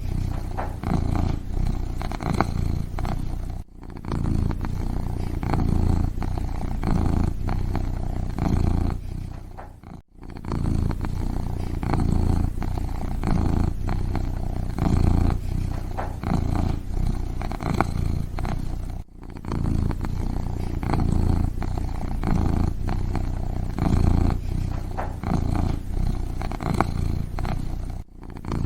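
Kitten purring steadily, a low rhythmic rumble with a few brief breaks.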